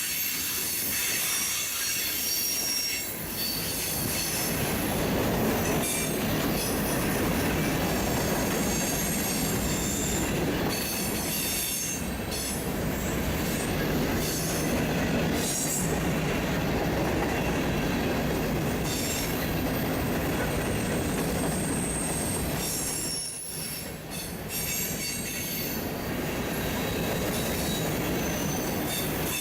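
Freight train cars rolling past, their steel wheels squealing on the rail in high, thin tones that come and go over a steady rumble.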